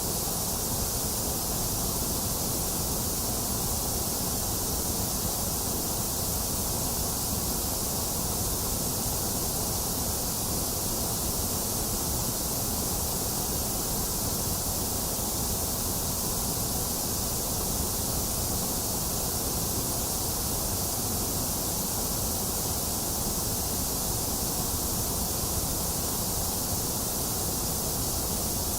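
A box fan running steadily, mixed with falling rain without thunder: one constant, even noise that does not change.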